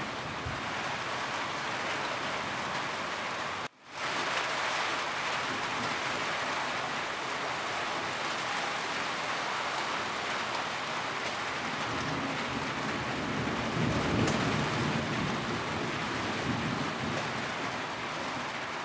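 Steady heavy rain falling on a roof, an even hiss. About two-thirds of the way through, a low thunder rumble swells and fades. The sound drops out for a split second about four seconds in.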